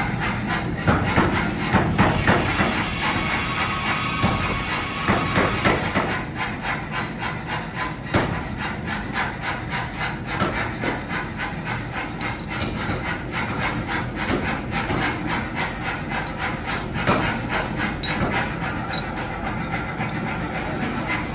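Hot-steel forging: repeated hammer blows on metal, with a loud hiss from about two seconds in that lasts about four seconds before the blows carry on alone.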